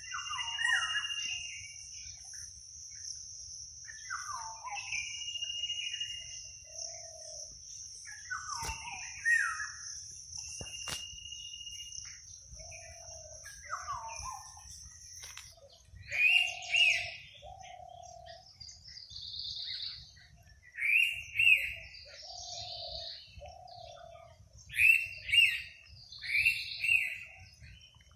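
Forest birds calling. One call is a held high note that drops away, repeated about every four seconds; after about halfway, other birds take over with short notes in pairs. A steady high whine runs through the first half and cuts off about halfway, over a low rumble.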